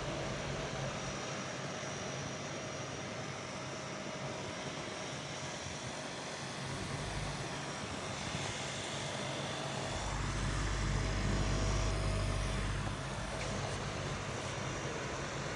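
Small USB fan running steadily: an even airy hiss with a faint steady tone in it. A low rumble swells for a few seconds about ten seconds in.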